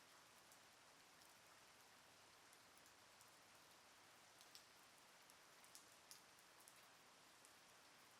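Faint, steady light rain, with scattered individual drops ticking on a surface; a few louder drips come about halfway through.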